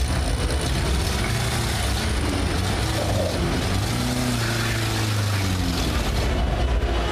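Old Fiat Uno hatchback's engine running, revved up and back down once about four to five seconds in.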